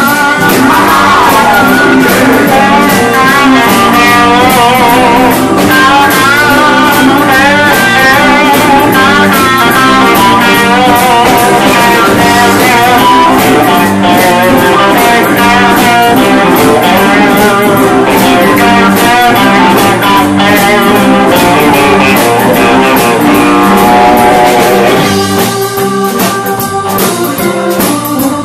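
Live blues-rock band playing an instrumental break, with a lead guitar playing bending lines over the band. The band drops back quieter near the end.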